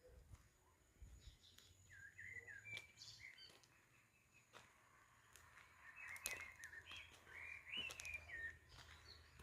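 A songbird singing faintly: two bursts of quick warbling, pitch-sliding phrases, one about two seconds in and a longer one past the middle, with a few sharp clicks among them.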